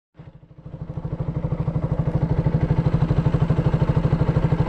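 KTM Duke 200's single-cylinder engine idling with a steady, quick, even beat, fading in over the first second after a brief silence at the start.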